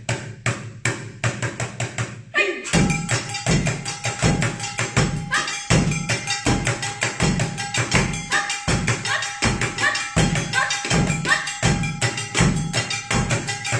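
Japanese taiko-style percussion ensemble: a few sharp stick clicks, then about two and a half seconds in a fast, driving drum rhythm starts, with deep drum hits, quick stick strokes and a steady ringing tone running through it.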